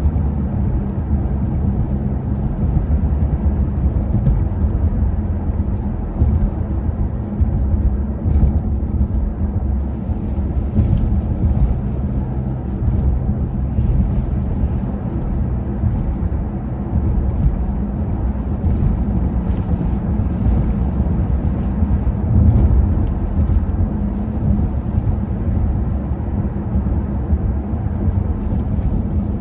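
Blizzard wind buffeting the microphone: a steady low rumble that swells in brief gusts.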